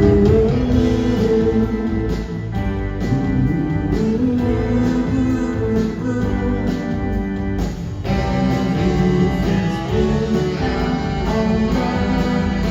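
Live pop-rock band playing an instrumental passage led by guitars over bass and drums, loud and continuous, with no lead vocal.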